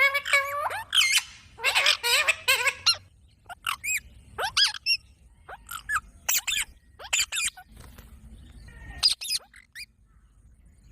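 Pet green parrot calling: a quick run of shrill chirps and squawks, then single calls spaced about half a second apart, which stop about a second before the end.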